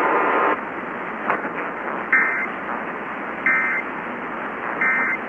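Emergency Alert System end-of-message: three short, identical bursts of warbling data tones sent at even spacing over a steady radio static hiss, marking the close of the flash flood warning.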